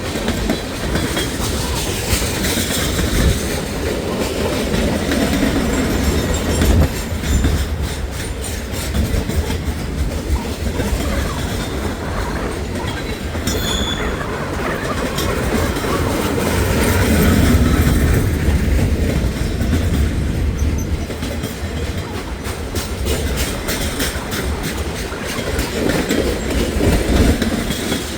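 Freight cars of a long CSX manifest train rolling past at speed, wheels clicking and clattering over the rail joints with a continuous rumble. A brief high squeal comes about halfway through.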